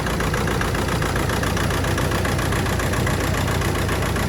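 Audi A4 B7's 1.9 TDI Pumpe-Düse four-cylinder diesel (engine code BRB) idling rough, a steady fast engine rhythm with no change in speed. The rough running is a cylinder misfire that the owner puts down to a faulty injector.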